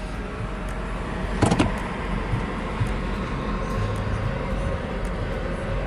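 Steady low rumble of a motorhome engine idling, with a brief knock about a second and a half in.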